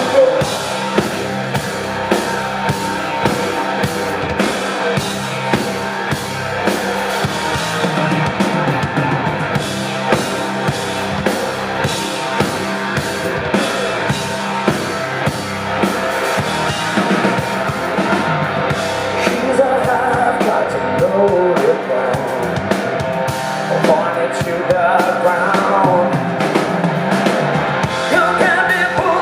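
Rock band playing live through an instrumental break: electric guitar lines over a steady drum beat and bass, with no lyrics sung.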